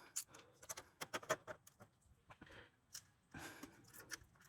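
Irregular light metallic clicks and handling noise as a bolt is fitted back into the motorcycle muffler's mount, with a brief scrape about three and a half seconds in.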